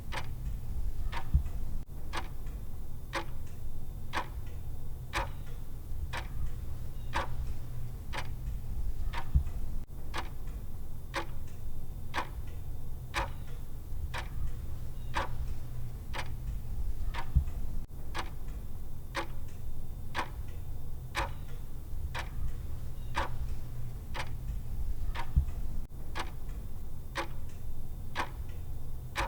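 Clock-style ticking from a countdown timer's tick sound, even and unbroken, over a low steady hum.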